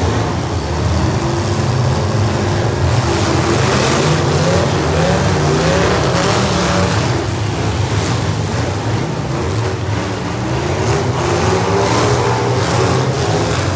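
Several demolition derby car engines running and revving, their pitch rising and falling, with the loud, unmuffled engine noise of cars in the arena.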